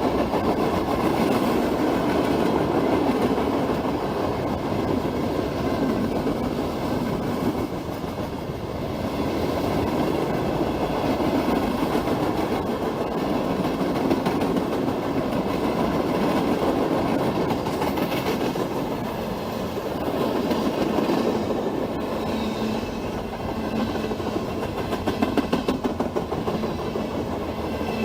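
Freight train rolling past, its cars giving a steady heavy rumble, with a run of rhythmic wheel clicks near the end.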